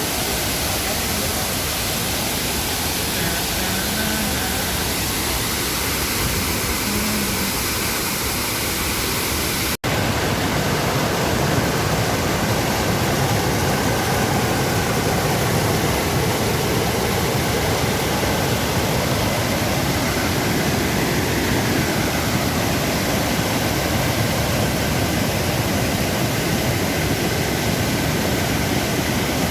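Waterfall rushing: a loud, steady roar of falling water. It drops out for an instant about ten seconds in, then carries on slightly louder.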